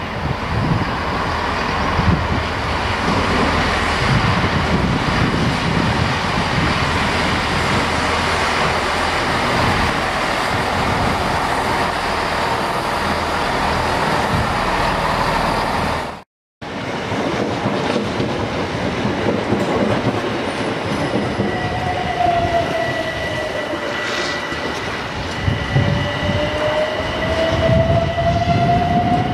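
A Class 166 diesel multiple unit running past over the rails, engine and wheel noise mixed. After a sudden cut, a Class 377 Electrostar electric unit comes through with a steady high tone and a motor whine that dips in pitch and then rises again.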